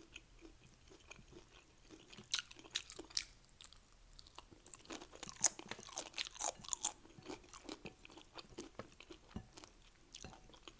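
Close-miked chewing of Doritos nachos: a run of crisp, crunchy bites with clicks and smacks, busiest a couple of seconds in and again through the middle.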